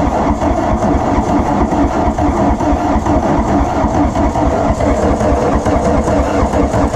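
1981 Volkswagen Rabbit pickup's four-cylinder diesel engine being cranked over by the starter in a steady rhythmic churn without catching, its fuel system just hand-primed after 17 years of sitting.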